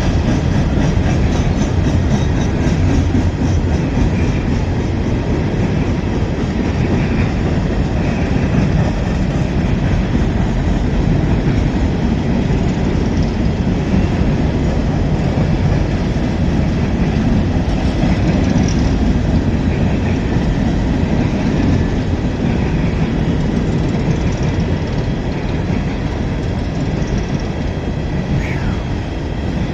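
A long train's cars rolling steadily past, a continuous loud rumble of wheels on the rails.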